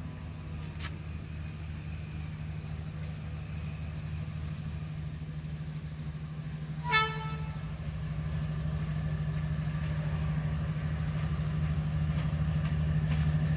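D19E diesel-electric locomotive engine running with a steady low rumble that grows louder as it approaches, and one short horn toot about seven seconds in.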